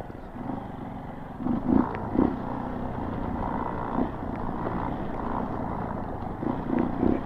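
Single-cylinder four-stroke Honda CRF dual-sport motorcycle engine running on a rough trail, the throttle rising and easing a few times, with occasional knocks from the bumps.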